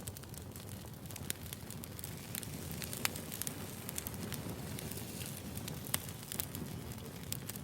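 Burning firewood crackling: a steady low rumble of flames under frequent small crackles and a few sharper pops, the loudest about three seconds in.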